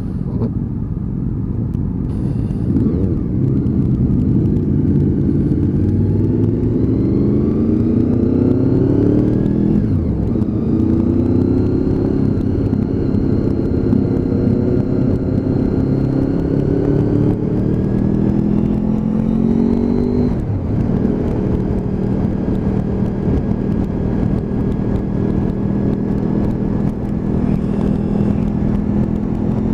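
Honda VFR's V4 engine pulling under acceleration, its pitch climbing steadily through the revs and dropping sharply at an upshift about ten seconds in and again around twenty seconds in.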